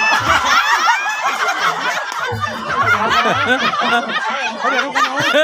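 A crowd of spectators shouting, cheering and laughing together, many voices overlapping throughout.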